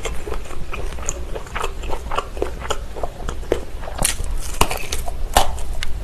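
Close-miked chewing and biting of a Vienna sausage, full of small wet mouth clicks and smacks, with sharper bites into the sausage about four and five and a half seconds in.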